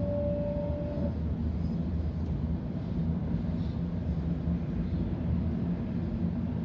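Cabin running noise of a Sydney Trains Waratah electric train: a steady low rumble of the train on the track. A slowly rising electric motor whine stops about a second in.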